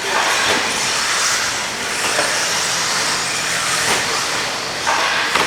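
Several radio-controlled stadium trucks racing around the track, a steady high whir of motors and tyres.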